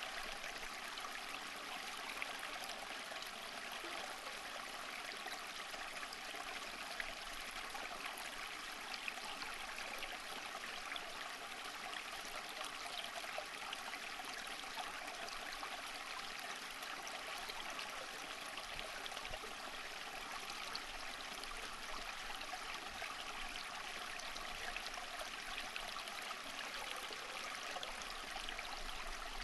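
Water of a small stream running over stones, a steady flow with fine splashing and trickling.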